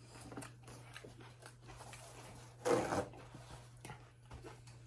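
Close-up chewing of a juicy whole mango eaten with its skin on: soft wet mouth clicks and squishes, with one louder wet bite sound about three seconds in. A faint steady electrical hum lies underneath.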